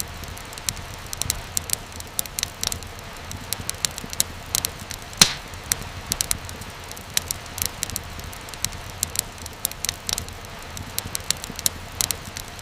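Wood fire crackling: irregular sharp pops and snaps over a steady low hiss of burning, with one louder pop about five seconds in.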